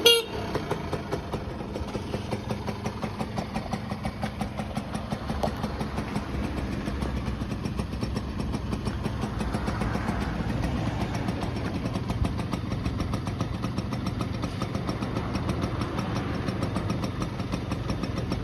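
Suzuki RV50's 49 cc air-cooled two-stroke single-cylinder engine idling steadily with a regular pulsing beat, settling to idle just after its revs drop at the start.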